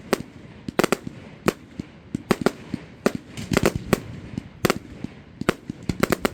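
Fireworks display: sharp bangs of shells bursting at irregular intervals, often two or three in quick succession.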